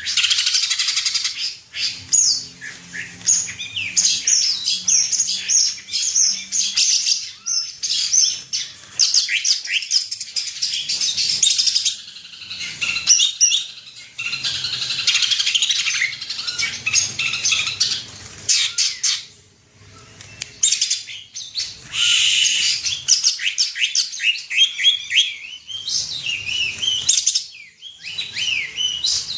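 Green leafbird (cucak ijo) in full song: a long, fast, varied run of chirps, whistles and trills, broken by a few short pauses.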